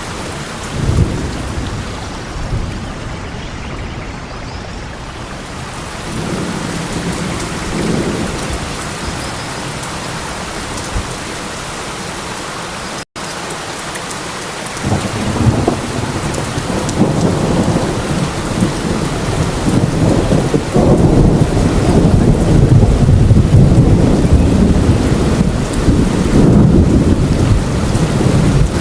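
Steady rain in a thunderstorm, with rolling thunder. Low rumbles swell about a second in and again around six to nine seconds, then grow louder and longer through the second half. There is a split-second gap in the sound near the middle.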